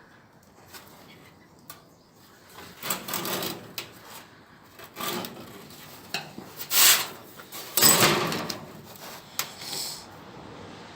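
Irregular scraping and rubbing strokes of sheet metal being worked by hand, with a few sharp clicks between them; the loudest strokes come past the middle.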